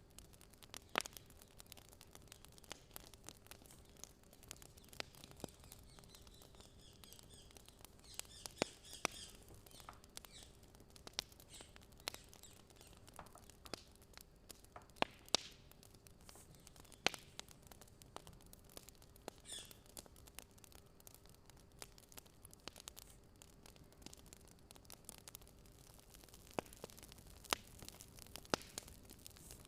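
Faint wood fire crackling: irregular sharp pops and snaps over a low hiss, with a steady faint hum underneath.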